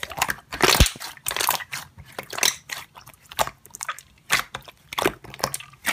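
Slime being squeezed and pressed by hand, giving a run of irregular crackling, popping clicks.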